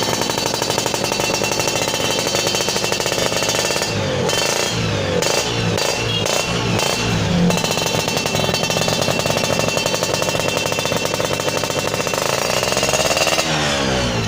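Yamaha F1ZR two-stroke engine running through its stock exhaust with the muffler gutted. It is blipped up and down several times between about four and seven seconds in, and revved again near the end.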